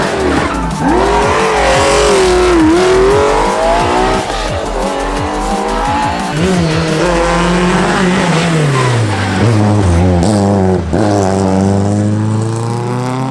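Rally car engine driven hard on a stage, its note swinging up and down again and again as it revs through gear changes, lifts and accelerates, with tyre squeal.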